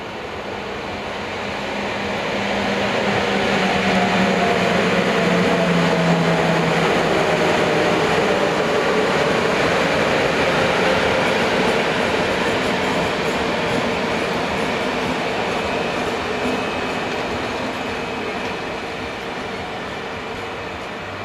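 Locomotive-hauled passenger train passing at speed. The rumble of its wheels on the rails swells as it approaches, with a whine that falls in pitch as the locomotive goes by, then stays loud while the coaches roll past before slowly fading.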